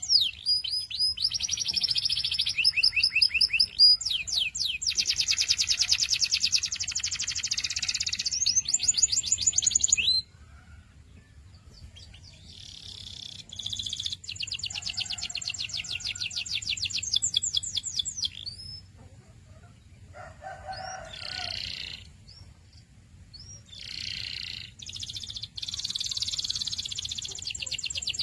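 Canary singing, its song made of rapid trills, each a quick run of repeated notes. The song is loud at first, breaks off about ten seconds in, then resumes more quietly in shorter phrases.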